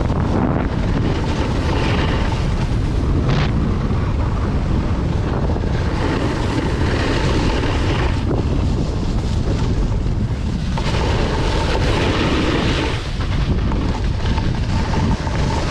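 Wind buffeting a camera microphone at speed while snowboarding downhill, a loud steady rumble. The board's hiss and scrape over the snow swells louder twice.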